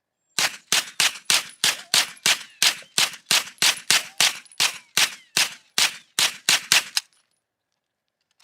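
A hand tool working metal in a quick, even rhythm: about twenty short, sharp strokes or strikes, roughly three a second, that stop about seven seconds in.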